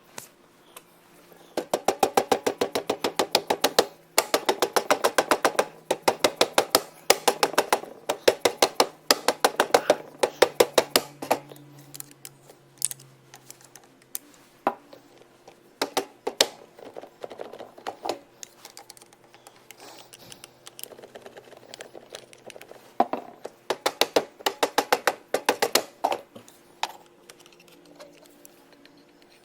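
Runs of rapid, evenly spaced clicking, about ten clicks a second, each run lasting one to four seconds with short pauses between, over a faint steady hum.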